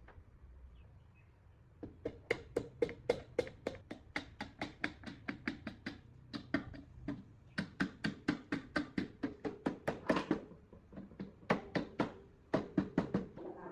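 Rapid, even taps or knocks, about four to five a second, in several runs with short breaks, starting about two seconds in.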